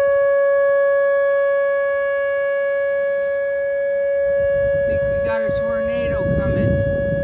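Outdoor warning sirens sounding a steady, unbroken tone, a tornado warning.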